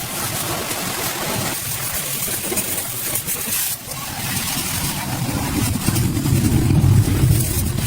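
An engine running steadily, with its low rumble getting louder in the last couple of seconds, as if revved up.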